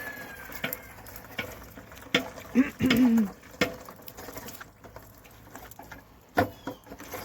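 Scattered clicks and knocks from working grapes through a fruit crusher, with a short vocal sound from the man about two and a half seconds in.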